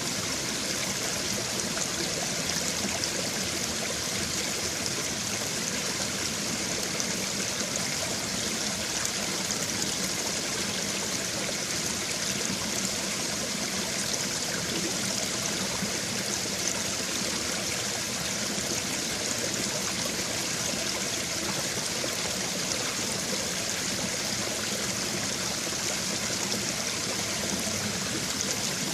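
A babbling brook: water running and splashing over stones in a steady, even rush, with trickling and gurgling through it.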